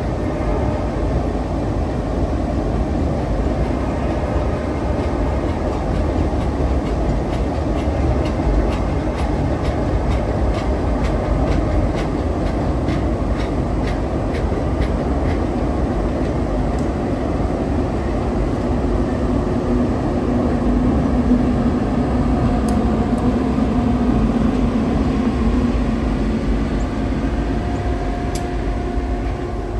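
Passenger train running on the rails with a steady rumble. A run of regular clicks, wheels over rail joints, comes through in the middle, and faint steady tones ring over the rumble later on.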